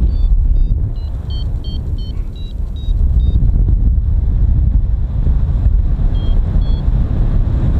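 Strong wind buffeting the microphone as a steady low rumble. Over it, a flight variometer beeps in short tones that step up and down in pitch, many in the first three seconds and twice more about six seconds in, signalling that the pilot is climbing in lift.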